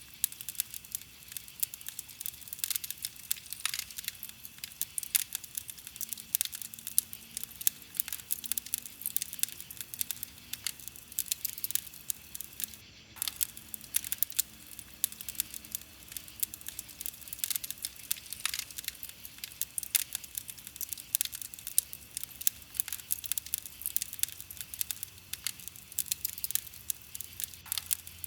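Campfire of burning wood crackling: a dense, steady run of small pops and snaps.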